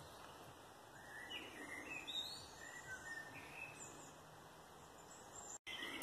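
Faint woodland birdsong: a few short chirps and whistles from small songbirds, clustered between about one and four seconds in, over a quiet hiss.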